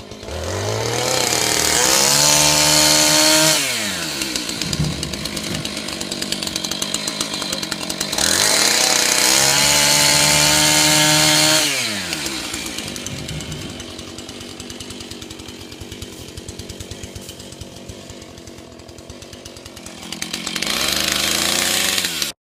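Chainsaw revved up to full throttle three times, each run lasting a few seconds before the pitch falls back to a fast, pulsing idle. The third rev is cut off suddenly near the end.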